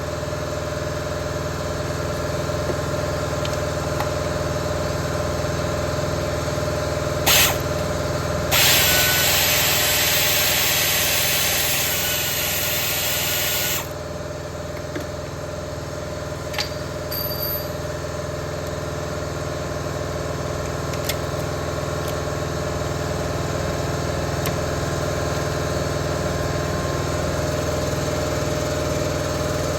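Steady mechanical hum of running machinery, with a short hiss about seven seconds in and then a loud spray-like hiss lasting about five seconds, plus a few light clicks.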